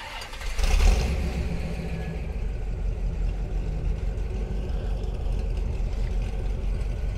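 1955 Chevrolet Bel Air's engine as the car gets ready to pull away: a loud flare about a second in, then a steady idle with a deep low rumble.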